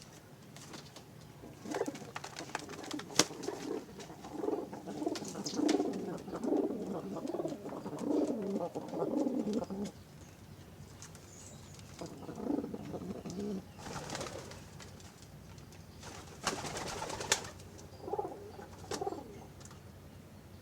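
Domestic pigeons cooing in low, wavering bouts, one long run of cooing followed by shorter ones, with scattered sharp clicks and rustling.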